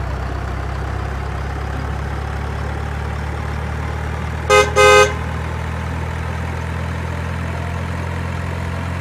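Vehicle engine running steadily with a low, even drone, dubbed in as a sound effect, with two short horn toots in quick succession about four and a half seconds in.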